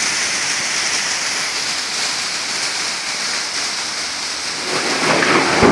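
Thunderstorm rain falling steadily as an even hiss. It grows louder and fuller near the end.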